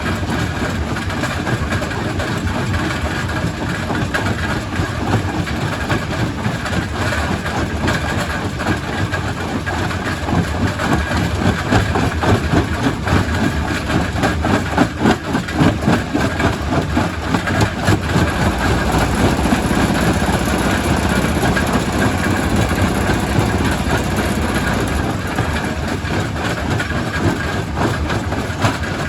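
Quarry primary rock crusher running, with a dense clatter of rock knocking and being crushed, busiest about halfway through.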